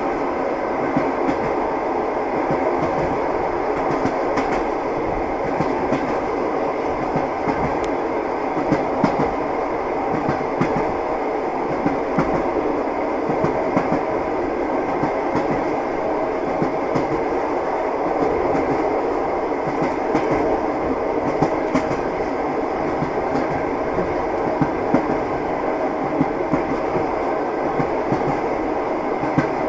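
Train wheels clattering over the rails: a steady rumble of a moving railway carriage with frequent small knocks from the wheels.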